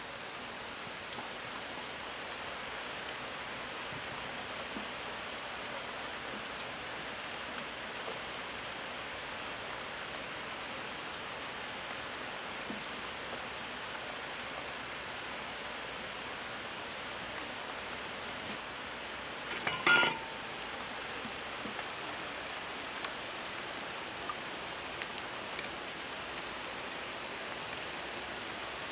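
Steady rain falling: an even hiss of rain on surfaces. About two-thirds of the way in, one brief, louder sharp sound cuts through.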